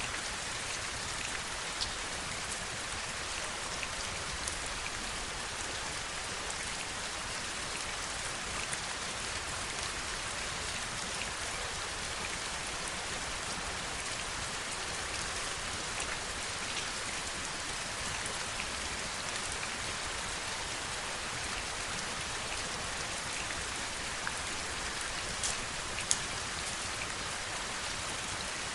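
Heavy rain falling steadily, a constant hiss with scattered sharper drop ticks, one louder drop near the end.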